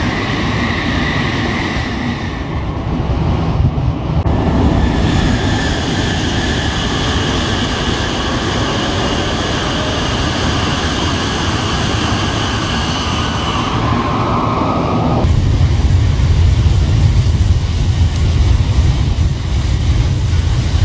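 Shinkansen bullet trains passing at high speed: a loud, continuous rushing and rumbling of train pass-bys, with sudden changes about 2, 4 and 15 seconds in. The low rumble is heaviest in the last few seconds.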